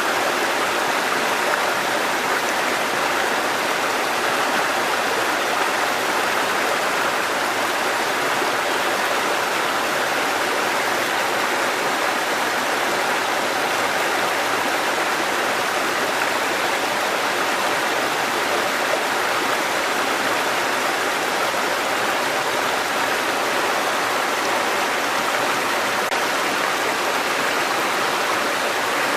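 Water cascading in a stream: a steady, unbroken rush.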